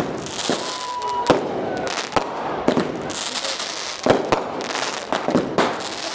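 Lunar New Year fireworks and firecrackers going off in irregular sharp bangs, with a stretch of hissing crackle about three seconds in.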